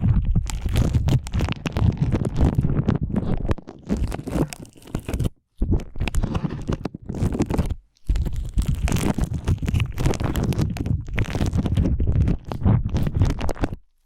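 Slime being squeezed and kneaded close to the microphone: wet squelching with many small crackling pops, in long bursts with brief pauses about five and eight seconds in.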